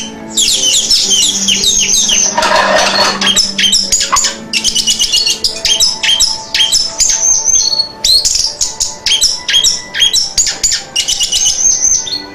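Orange-headed thrush (anis merah) singing a fast, continuous song of rapid, varied whistled notes and sweeps, in phrases broken by short pauses.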